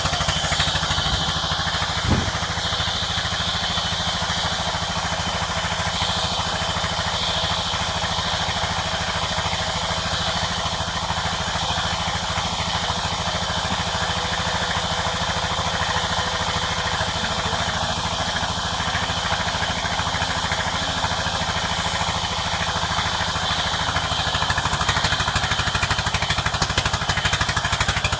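Sawmill machinery running steadily: an engine drone with a fast, even beat, and a single sharp click about two seconds in. It gets a little louder near the end.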